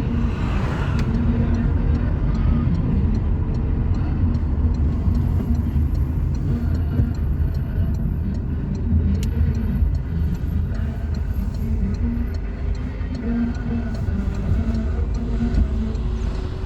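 Motor vehicle on the move: a steady low rumble of engine and road noise, with faint, fast, regular ticking through the middle.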